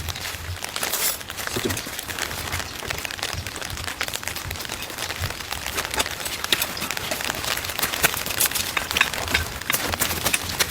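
Heavy rain striking a roof close overhead, as a dense run of irregular drop ticks.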